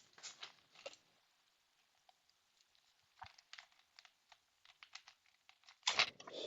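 Scattered faint clicks and rustles, with a short louder rustle about six seconds in.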